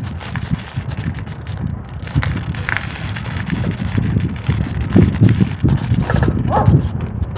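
Wind buffeting the microphone of a bicycle rider on the move, a loud uneven low rumble, with faint road and bike noise under it.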